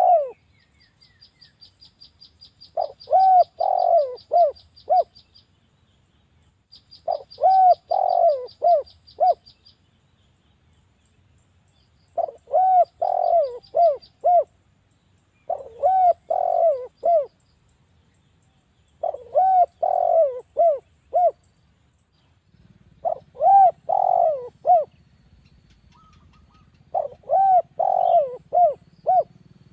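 Spotted dove (derkuku) cooing: seven phrases of several throaty coos, one every three to four seconds. Between the first few phrases a rapid, even, high-pitched trill repeats.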